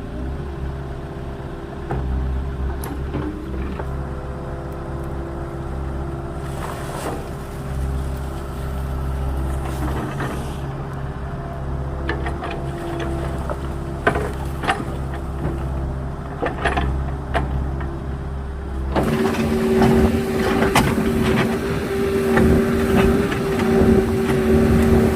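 Small agricultural excavator's diesel engine running steadily, with scattered knocks and clanks. About two-thirds of the way in, the engine note steps up and grows louder as the machine goes under load.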